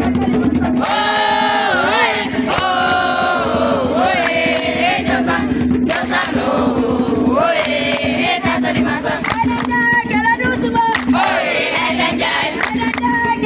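A group of young people singing and chanting together, with repeated percussive beats throughout.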